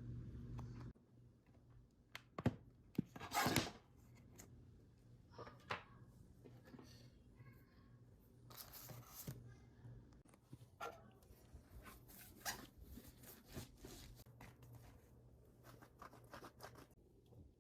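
Household handling noises from cleaning in a small room: scattered knocks and clicks with several longer rustling and tearing sounds, the loudest about three to four seconds in and again around nine seconds. A low hum stops about a second in.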